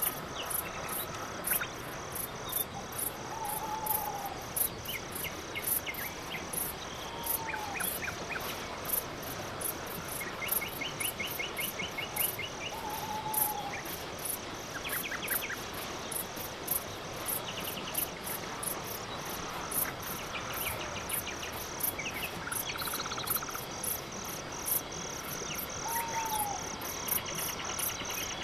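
Night-time chorus of crickets and other insects: a steady high chirping pulse about three times a second over a continuous high buzz, with short rattling trills coming and going. A short falling call sounds four times, a few seconds apart.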